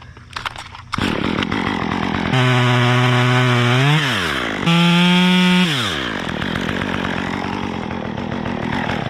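Two-stroke chainsaw running, revved up twice and held briefly at high speed, the second time higher, each rev falling away back to a steady idle.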